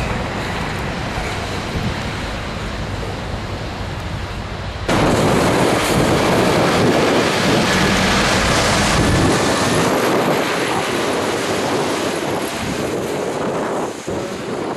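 Steady wind noise on the microphone over the rumble of road traffic, turning abruptly louder about five seconds in.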